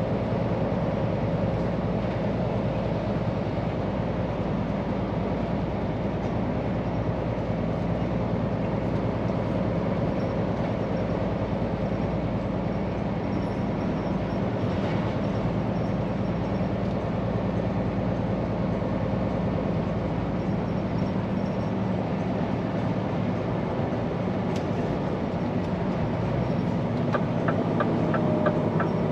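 Scania P410 truck's diesel engine running steadily on the road, a continuous low drone with road and drivetrain noise. Near the end a quick run of light ticks joins in.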